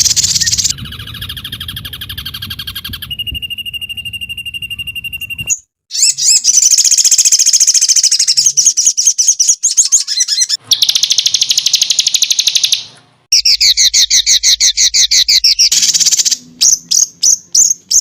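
Recorded songbird calls, spliced into a masteran loop: fast, high trills and rapid repeated chirps in loud segments that change abruptly every few seconds. A held whistle-like note comes about three seconds in.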